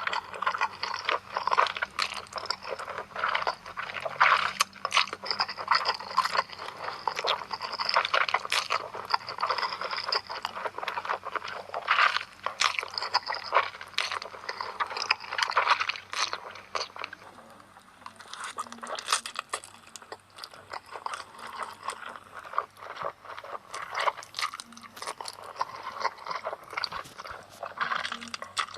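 A person chewing and eating noodles: a dense run of quick, sharp mouth clicks and crackles that eases briefly a little over halfway through.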